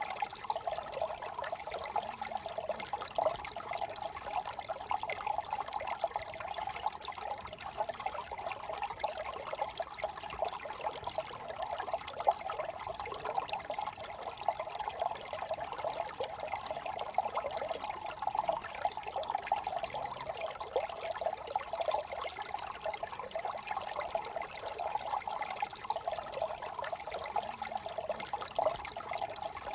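A small brook trickling and burbling over stones.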